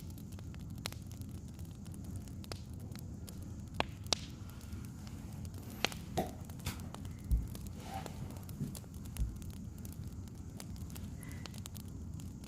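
Wood fire crackling: scattered sharp pops and snaps over a steady low rumble, with two dull thumps a couple of seconds apart after the middle.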